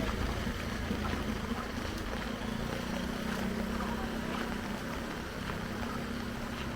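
A steady low engine hum over an even background hiss.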